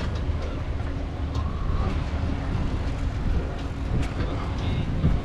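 Steady low rumble of wind on the microphone and a beach cruiser bicycle rolling along the path, with a few faint clicks and rattles.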